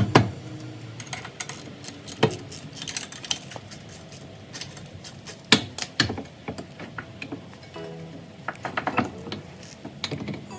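Irregular metallic clinks and knocks, with a few louder strikes and a quick run of small clicks near the end, typical of hand tools and metal parts being handled during work on a car.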